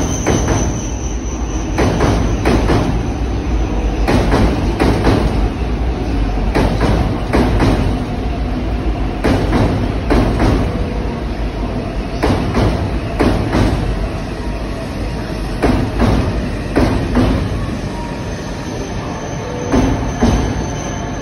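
E5 series Shinkansen train pulling slowly into a terminal platform: a steady low rumble with irregular clacks from the wheels on the track, and a thin high squeal at the start and again near the end.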